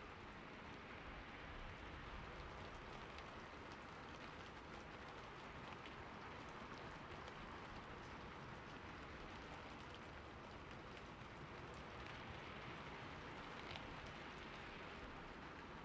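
Steady rain falling on a roof, a soft even hiss with scattered faint drop ticks.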